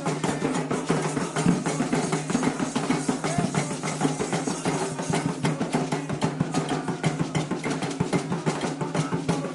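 Candomblé atabaque drums playing a fast, dense, unbroken rhythm of strokes.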